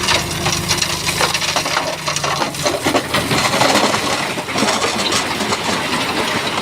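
Stones clattering and knocking against one another as a Shantui bulldozer pushes a load of rock, with the dozer's engine running low underneath for the first couple of seconds.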